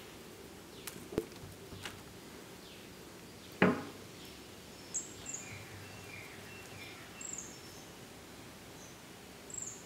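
Quiet background ambience with small birds chirping, short high chirps that slide downward, coming every second or so from about halfway through. One sharp knock about a third of the way in.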